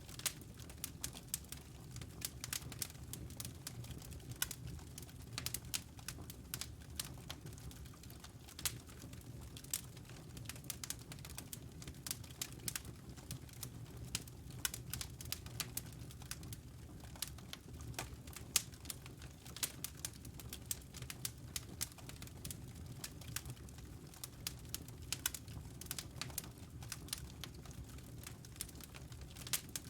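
Fireplace wood fire crackling: many irregular sharp pops and snaps over a steady low rumble.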